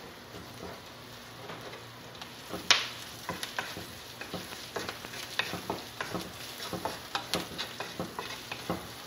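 Sliced onions, shallots and garlic sizzling in oil in a hot wok, stirred with a wooden spatula that scrapes and knocks against the pan. The knocks come more often from about three seconds in, with one sharp knock near the start of them.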